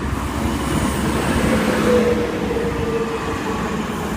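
Hunter railcar diesel multiple unit pulling into the platform, its running noise with a faint steady tone, loudest about two seconds in and easing slightly after.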